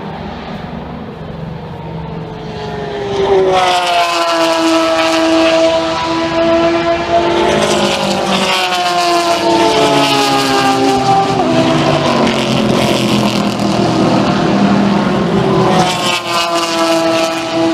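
Endurance race cars passing at speed, one after another. Their engines are loud, with three cars arriving about 3, 8 and 16 seconds in, and the pitch drops as each one goes by.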